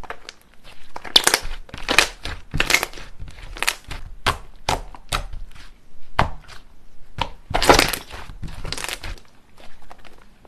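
Slime being squished and pressed by hand, giving an irregular series of sharp crackling, crunchy pops.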